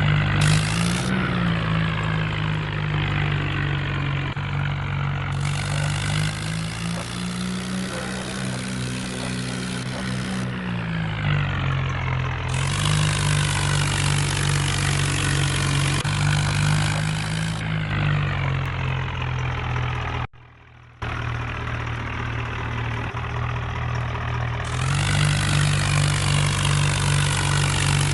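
Swaraj 963 tractor's diesel engine running under load, revving up and easing back several times. It drops out abruptly for under a second about two-thirds of the way through, then carries on at a steady pitch.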